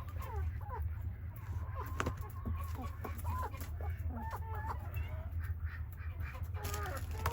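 Chickens clucking busily, many short calls overlapping, while they eat black soldier fly larvae, over a steady low rumble.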